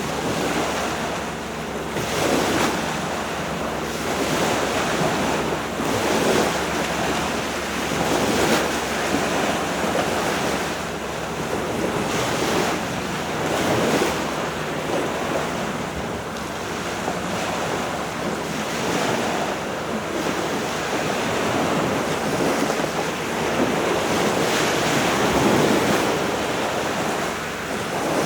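Wind buffeting the microphone in gusts that swell and fade every few seconds, over a steady rush of sea surf.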